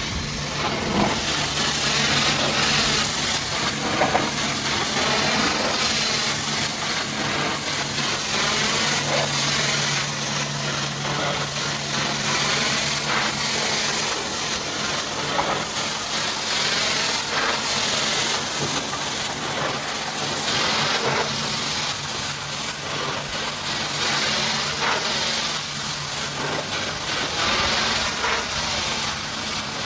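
High-pressure washer jet spraying water onto a muddy truck, a steady loud hiss with the washer's pump humming underneath.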